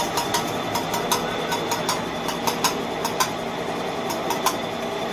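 Sharp metallic taps or knocks, about fifteen of them at an uneven pace, over a steady mechanical hum.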